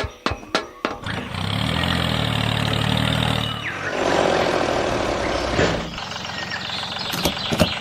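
A run of quick clicks, then an engine running steadily from about a second in, changing to a rougher, noisier sound about four seconds in and easing off near the end.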